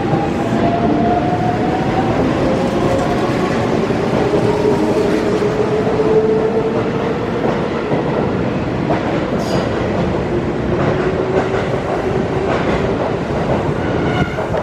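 Kintetsu electric train running past the platform, its wheels clacking over the rail joints, with a faint motor whine that slowly drops in pitch.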